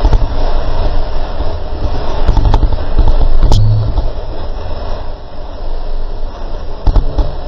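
Loud, steady low rumble aboard a boat at sea, with a few sharp knocks about two and a half, three and a half and seven seconds in.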